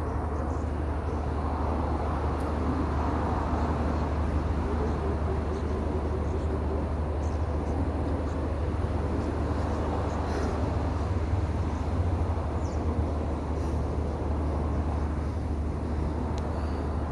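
Steady outdoor background noise with a constant low hum, plus a few faint ticks.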